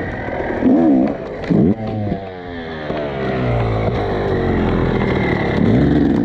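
Off-road dirt bike engine under hard throttle, its pitch rising and falling repeatedly as the rider opens and closes the throttle and shifts. The engine note drops away abruptly at the very end.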